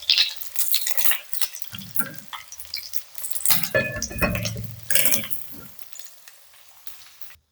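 Chicken wings sizzling in a pan while a utensil stirs them, scraping and clinking against the pan, with a few duller knocks around the middle. The sizzle fades and then cuts off just before the end.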